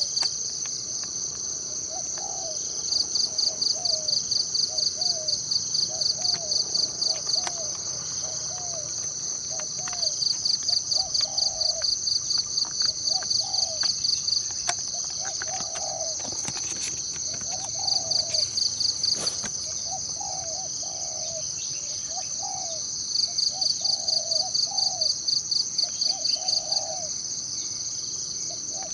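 Forest insect chorus: a steady high-pitched buzz with rapid pulsing trills that come and go in several bouts, and short low calls repeating about once a second throughout.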